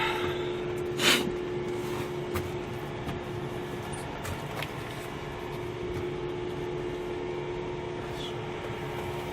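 A steady mechanical hum at one constant pitch, with a sharp click or knock about a second in and a few faint ticks after.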